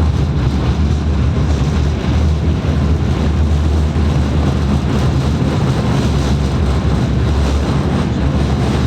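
Tram running: a loud, steady low drone with rumbling noise over it, heard from inside the car.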